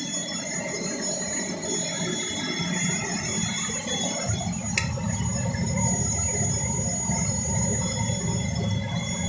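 CNC cutting machine running a test cut: a steady high whine made of several thin tones. A low rumble comes in about four seconds in, with a sharp click just after it.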